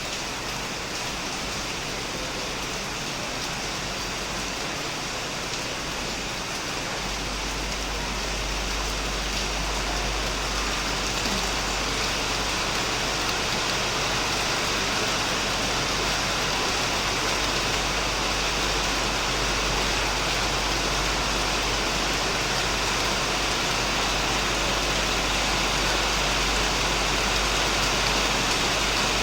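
Heavy rain falling steadily on a shed, a dense even hiss that grows a little louder about seven seconds in.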